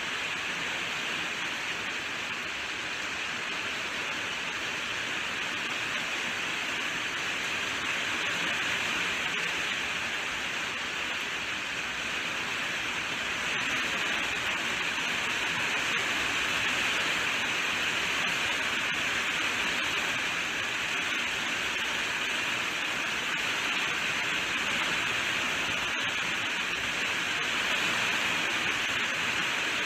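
Steady rainfall, an even hiss that swells a little in strength partway through.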